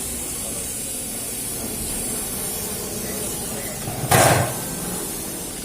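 Thermal fogging machine running with a steady hiss and low rumble as it sprays insecticide fog. About four seconds in comes a short, loud burst.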